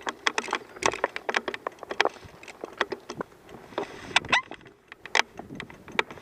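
Irregular crunching and crackling of dry ground, twigs and leaves on a trail being crossed on foot or by bike, with a short squeak about four seconds in.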